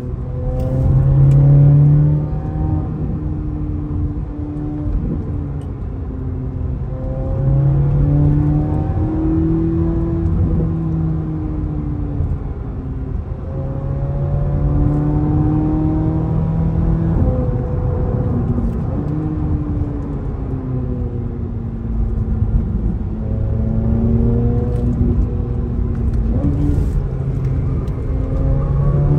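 Chevrolet C8 Corvette Z06's flat-plane-crank V8, heard from inside the cabin on the move. Its engine note rises and falls several times as the throttle is worked, over a steady rumble of road and tyre noise.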